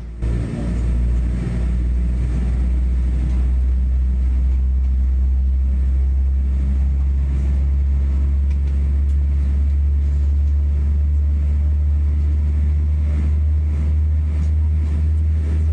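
Boeing 787-9's GE GEnx-1B jet engines spooling up, heard from inside the cabin beside the wing. The sound rises sharply in the first second, then holds as a steady, loud, low rumble.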